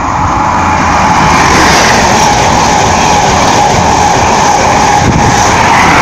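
An InterCity 125 (HST) train passing through the station at speed: a loud, steady rush of wheels on rail and air, with a steady whine running through it, building up in the first second.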